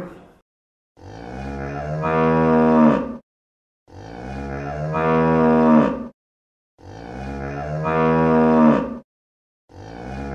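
A cow mooing: the same long moo repeated at even intervals, each call about two seconds long, growing louder and then cutting off abruptly, with silence between. The tail of one moo ends at the very start, three full moos follow, and a fourth begins near the end.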